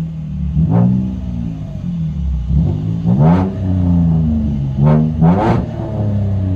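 2013 Chevy Camaro's 3.6-litre V6 on a true dual exhaust with straight pipes and Vibrant bottle resonators, heard from inside the cabin and revved in about four sharp blips that rise and fall back, the last two close together.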